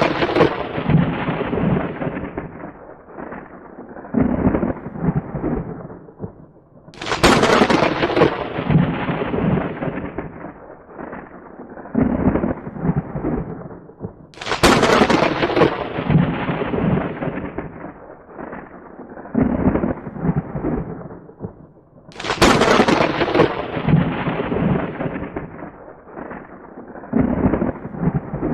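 Thunder: a sharp crack followed by a long rolling rumble that dies away, the same thunderclap repeating about every seven and a half seconds, three fresh cracks after the first one's rumble.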